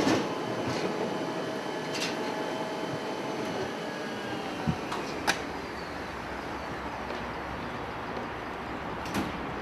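Railway carriage running: a steady rumble with faint metallic squeals and several sharp clicks and knocks.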